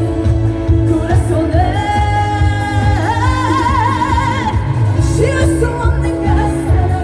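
Female singer singing a trot song over a backing track with a heavy bass beat. About three seconds in she holds a long note with vibrato.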